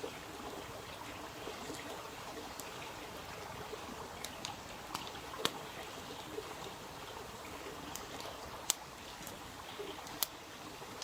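Water trickling steadily, with scattered sharp ticks and taps, the loudest about halfway through and twice near the end.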